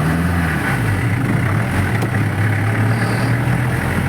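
A 1996 off-road jeep's engine running steadily under load, with a brief rise and fall in pitch near the start.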